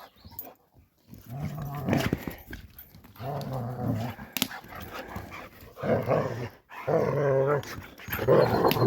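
A dog growling and grumbling in about five drawn-out, pitched vocalisations, a few short pauses apart, as if talking back.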